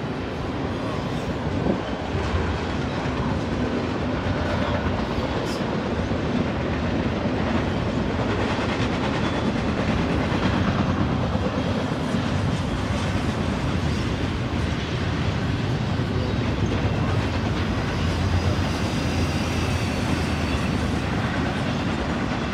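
Double-stack intermodal freight cars rolling past on steel wheels, a steady, unbroken wheel-on-rail noise.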